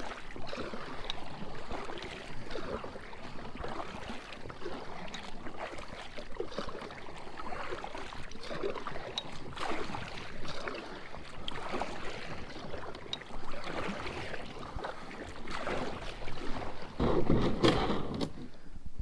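Kayak paddle strokes swishing and splashing through the water, one stroke about every second and a half, with a louder, deeper rush near the end.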